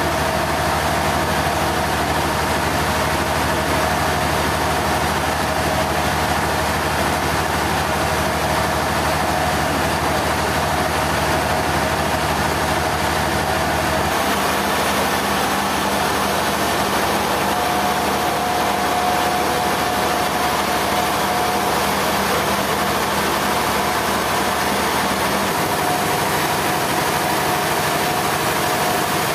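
Sawmill machinery running steadily: an engine-like drone with a steady whine above it. The low hum changes about halfway through and again near the end.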